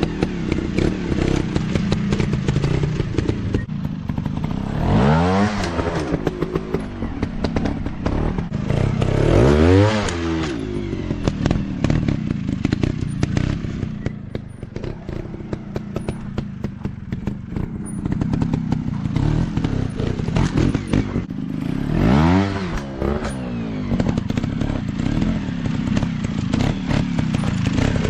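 Dirt bike engine running, revving up and back down three times, about five seconds in, around ten seconds in and near twenty-two seconds, with clattering and knocking over it.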